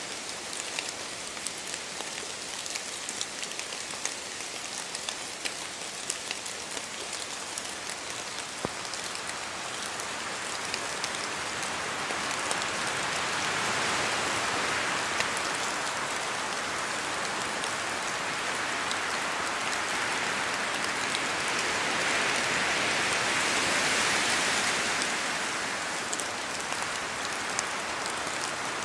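Steady rain in a forest, with many separate drops pattering down from the trees. A gust of wind through the trees swells up about a third of the way in, stays strong through most of the second half, and eases off near the end.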